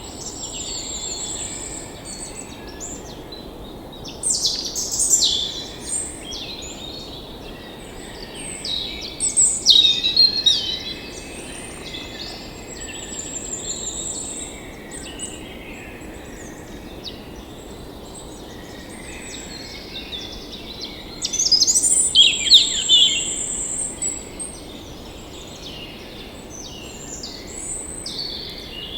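Songbirds singing and chirping in short, repeated phrases, with louder bursts about four seconds in, around ten seconds and around twenty-two seconds, over a steady background hiss.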